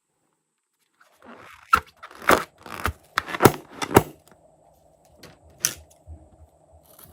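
A series of sharp clicks and crackles, about eight over four seconds, starting about a second in after dead silence, over a faint steady hum.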